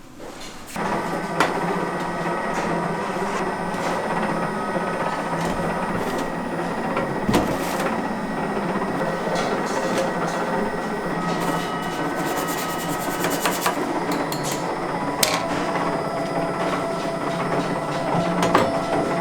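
Electric dough mixer running with a steady motor hum while it mixes buckwheat noodle dough. It switches on about a second in, with a few clicks and knocks over it.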